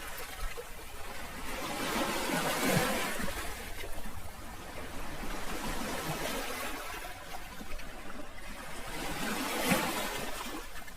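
Sea waves washing ashore in a steady hiss that swells and ebbs, with louder surges about two to three seconds in and again near the end.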